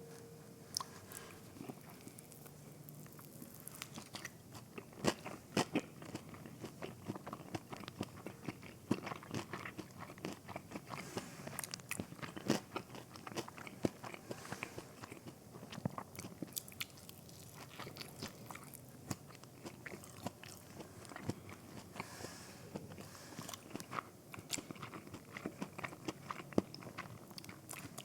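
Close-up chewing and biting of breaded fried mozzarella sticks: crisp crunches of the fried coating among soft, wet mouth sounds, with irregular sharp clicks all through.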